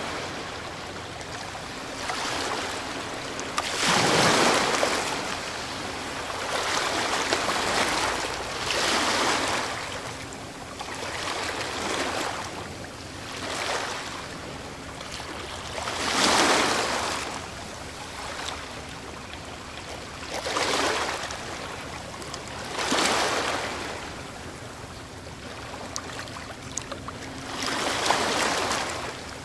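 Ocean waves breaking and washing on the shore, a surge every few seconds over a steady hiss of surf.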